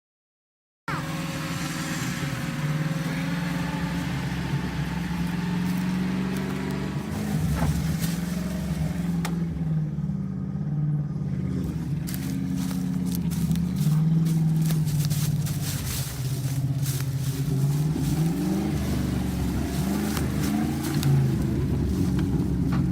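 A vehicle engine running under load, its pitch rising and falling as it revs, with many short clicks and cracks in the second half. It starts after a brief moment of silence.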